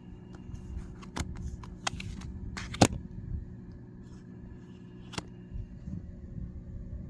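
Oracle cards being handled: rustling and light taps, with a sharp click about three seconds in and another a little after five seconds, over a low steady rumble.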